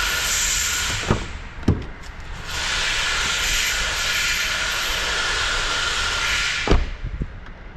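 Loud, steady hiss in two long bursts, one stopping about a second in and the other cutting off near the end with a sharp knock, with a few knocks in the gap between them.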